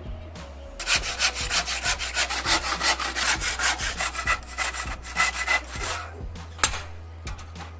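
Rapid back-and-forth scraping strokes of a hand tool, about five a second, starting about a second in and stopping about six seconds in, over a steady low hum. A few sharp clicks follow, one of them louder.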